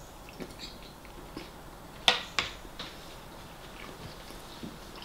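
Close-miked chewing of a mouthful of bacon: wet mouth smacks and clicks, with two sharper smacks about two seconds in.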